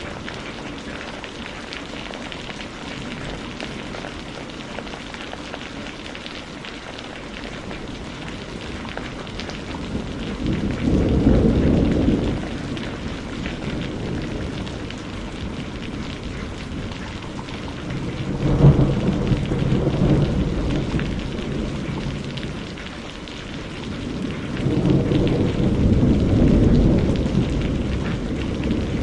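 Steady rain falling, with thunder rumbling three times: once about a third of the way in, once with a sharper crack about two-thirds in, and a longer roll near the end.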